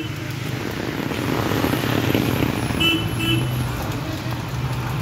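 Steady rain noise with a low hum under it. Two short, high-pitched toots come close together about three seconds in.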